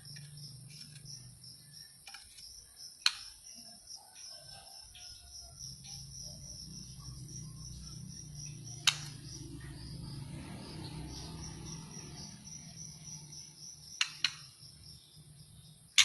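Steady, rapidly pulsing cricket-like insect chirping, over a low hum, broken by a few sharp clicks: one about three seconds in, one near nine seconds, a quick pair near fourteen seconds and one at the end.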